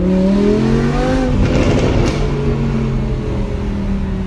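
Audi R8 V10 Plus's 5.2-litre V10 through a Brooke race exhaust, revving up under acceleration for about a second, then crackling and popping on the overrun from its pops-and-bangs tune before settling to a steadier, lower engine note.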